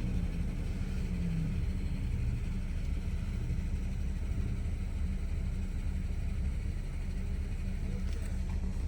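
BMW E60 550i's 4.8-litre V8 running with its mufflers deleted: a steady, deep exhaust note.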